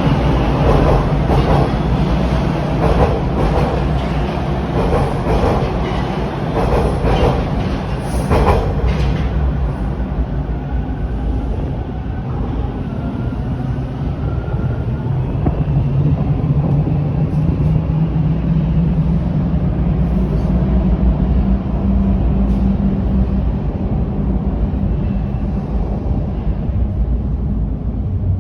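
A TTC Bombardier T1 subway train running, its wheels clattering over rail joints in quick clicks for the first several seconds. Then it settles into a steadier rumble with a faint rising whine.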